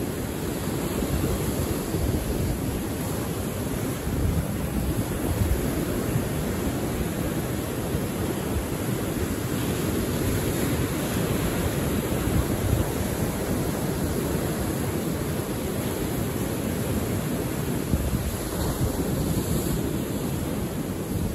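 Sea surf washing on the shore as a steady roar of noise, with wind buffeting the microphone.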